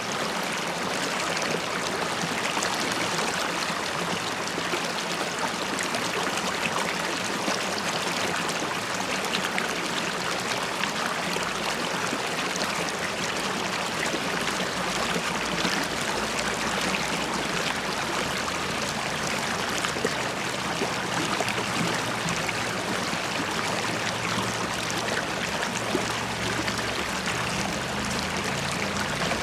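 River water running and bubbling over stones, a steady rushing burble with fine splashy detail.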